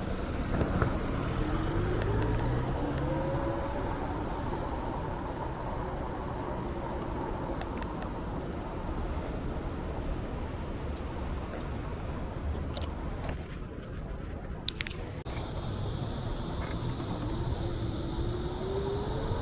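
Urban road traffic: a steady rumble of passing vehicles, with twice a vehicle's motor whine rising in pitch as it pulls away. A brief high-pitched squeal comes about eleven seconds in.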